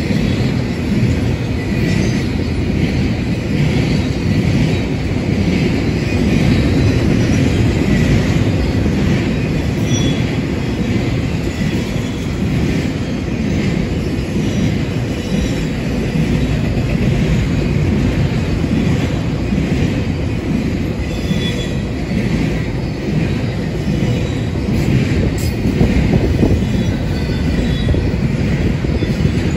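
Freight train cars rolling past steadily, a continuous rumble of wheels on rail with occasional faint, high wheel squeals.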